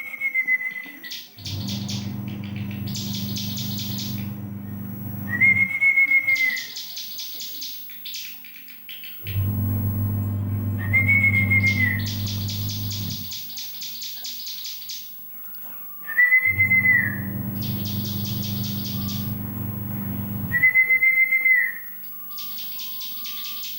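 Young ciblek gunung (a prinia) singing. It repeats the same phrase about every five seconds: a clear rising-and-falling whistle, then a very fast, high rattling trill. Each phrase comes over a steady low hum.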